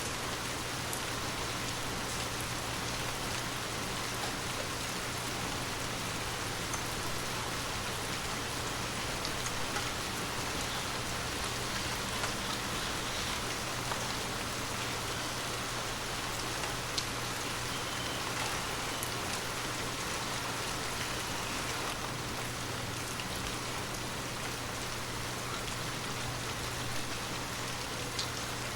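Steady heavy rain falling, a continuous hiss with scattered sharper drop ticks on hard surfaces, under a constant low hum.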